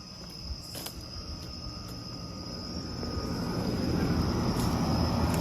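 Crickets trilling steadily in the night, with the low hum of a running Carrier outdoor AC condenser unit growing louder over the last couple of seconds.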